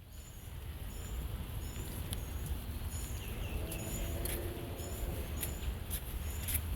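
Outdoor rainy-day ambience: wind rumbling on the microphone under light rain patter with scattered sharp ticks, and a faint high chirp repeating about every half second. A low hum rises and fades about halfway through.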